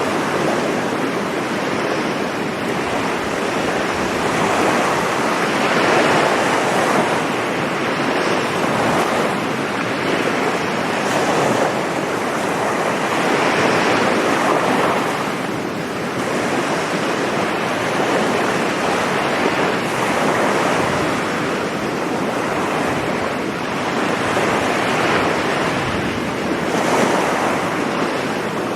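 Sea waves breaking and washing up the beach, a continuous surf that swells and eases every few seconds, with some wind on the microphone.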